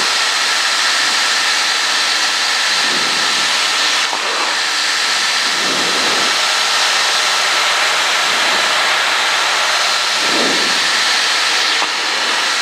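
Cessna 152's four-cylinder Lycoming engine and propeller heard in the cabin in flight: a steady drone under a constant rush of air noise.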